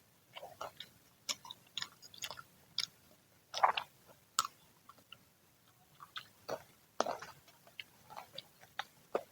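Chewing and biting into crispy freshly fried fritters (gorengan): irregular crunches and mouth clicks, the loudest crunch about three and a half seconds in.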